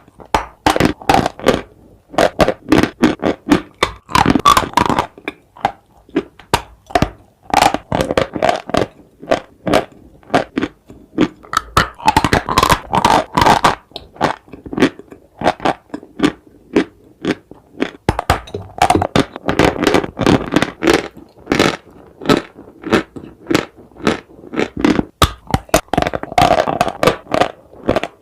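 Loud, repeated crunching and crackling as pieces of dry clay and chalk are bitten and chewed, in dense clusters of sharp cracks with short scraping pauses between them.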